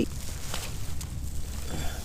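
Quiet outdoor background: a steady low rumble with light hiss and a few faint rustles.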